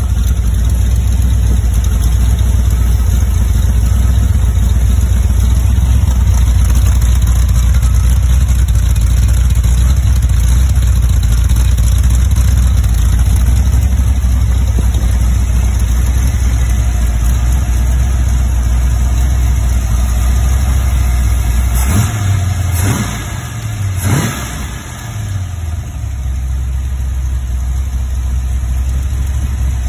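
Rebuilt Chrysler 440 V8 from a 1971 Dodge Charger R/T running on an engine run stand with a temporary four-barrel carburettor, during its break-in. It idles steadily, with two quick revs about two-thirds of the way through before settling back to idle.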